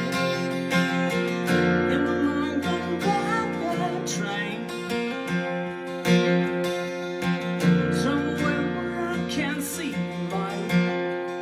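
Acoustic guitar strummed steadily as accompaniment to a song, with a man's singing voice coming in here and there.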